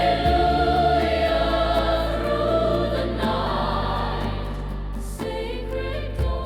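Choral worship music: a choir holding long, sustained notes over a slow-moving bass line.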